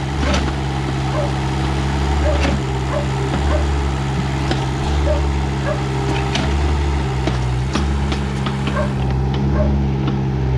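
Mini backhoe's engine running steadily under digging work, with scattered short knocks and clicks over the drone.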